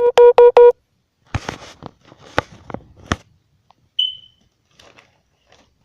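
Four quick, loud electronic beeps at the start, followed by a series of sharp clicks and knocks, then a single short high-pitched ping that fades out about four seconds in.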